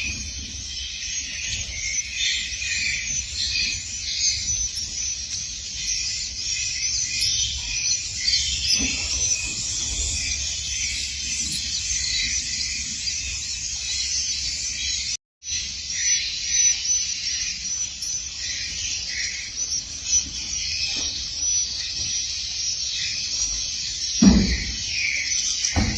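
Swiftlets chirping, a dense and unbroken chorus of short high chirps, over a low steady rumble. The sound breaks off for an instant about fifteen seconds in, and a low knock comes near the end.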